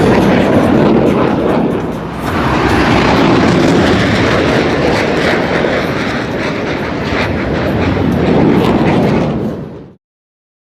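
Loud, steady aircraft engine noise with a short dip about two seconds in, cut off abruptly near the end.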